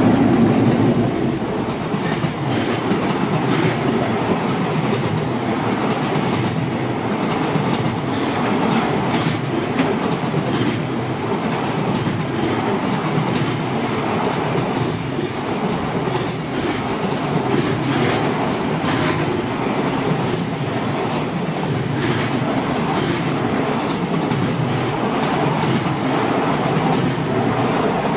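A long JR Tokaido Line train running close by at speed, its wheels clacking repeatedly over the rail joints under a steady heavy rumble.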